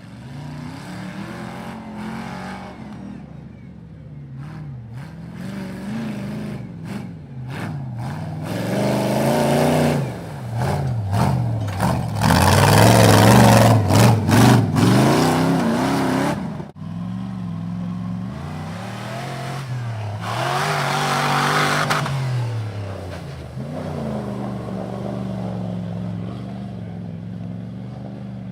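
Off-road mud truck's engine revving up and down again and again, loudest and hardest for a few seconds around the middle, with sharp clattering knocks through the loudest stretch, then settling to a steadier lower rev near the end.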